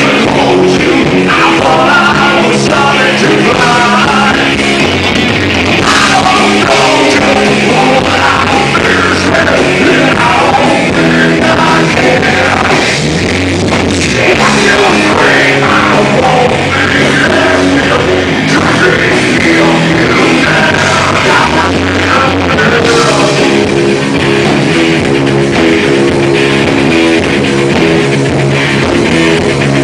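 Live rock band playing loudly: electric guitar, bass and drum kit.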